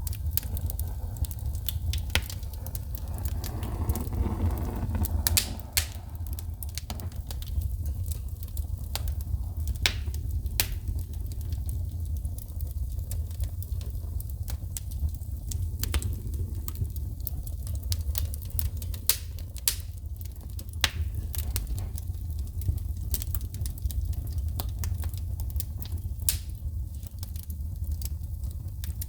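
Wood fire in a fireplace crackling, with sharp pops of shooting sparks at irregular intervals over a steady low rumble.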